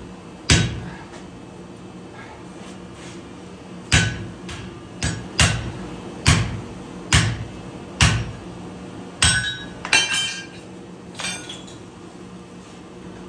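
Hand hammer striking hot leaf-spring steel on an anvil during forging: one blow, a pause of about three seconds, then about ten blows roughly a second apart. Several of the later blows leave a short metallic ring.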